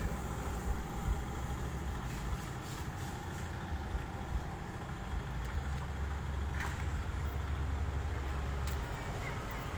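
Truck engine running with a steady low rumble, which grows a little fuller from about the middle to near the end.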